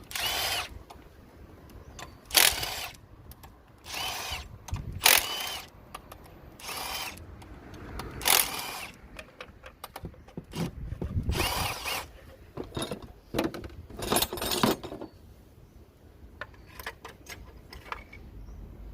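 Handheld power drill run in repeated short bursts of about half a second to a second each, with pauses between them.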